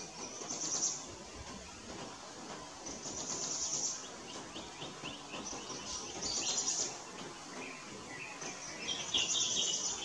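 Bird calls: a high, rapid trill, each about a second long, repeated about every three seconds, with a few lower notes in between.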